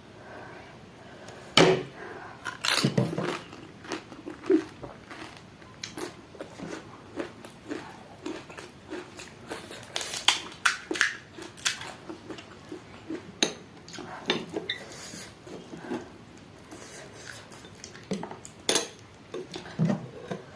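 Pani puri being eaten close to the microphone: crisp hollow puri shells crunching between the teeth and wet chewing, in irregular sharp crunches with a few louder ones.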